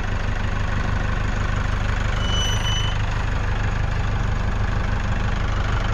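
Tractor engine running steadily with a low, fast pulsing. A brief, high, thin squeal sounds about two seconds in.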